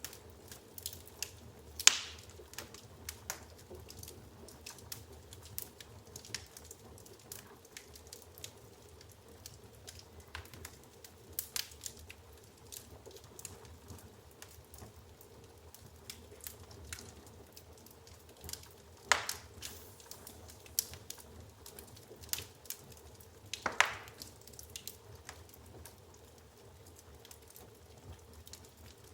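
Wood logs burning in an open fireplace, crackling with irregular sharp pops. A louder pop comes about two seconds in, and two more come past the middle.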